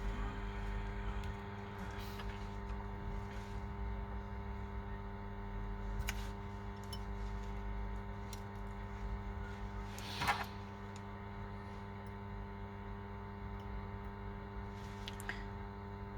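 Steady electrical mains hum with a few faint clicks from handling small parts, and one sharper click-scrape about ten seconds in.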